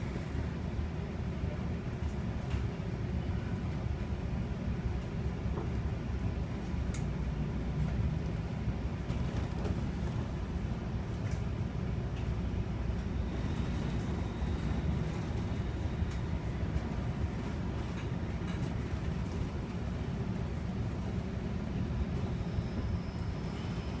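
NJ Transit commuter train heard from inside a passenger coach, running on the rails and gathering speed out of a station: a steady low rumble of wheels on track with a few faint clicks.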